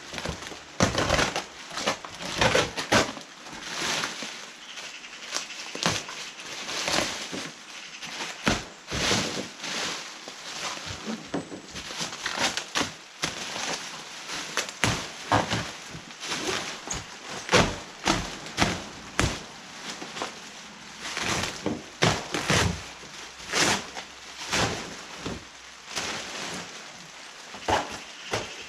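A cardboard shipping box and its packaging being torn open and handled: irregular crunches, rips and knocks, some single and some in quick clusters.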